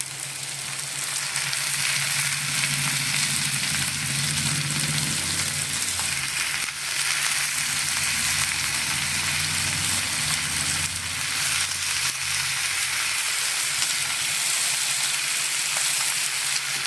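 Onions, with tomatoes just added, sizzling steadily in hot oil in a kadai. A low hum runs underneath for about the first twelve seconds.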